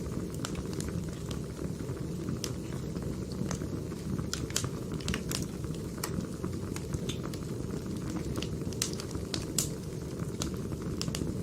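Burning firewood, a steady low rumble with frequent sharp, irregular crackles.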